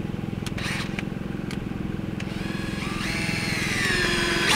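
Cordless drill running under load, driving a long screw through the bed's top down into a leg, its motor pitch rising about three seconds in.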